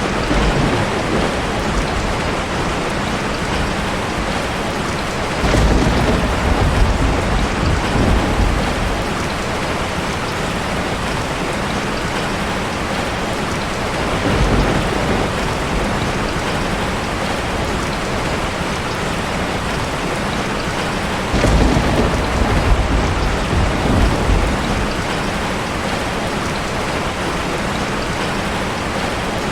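Heavy rain pouring steadily, with rolls of thunder rumbling about five seconds in, again near the middle, and again about two-thirds of the way through.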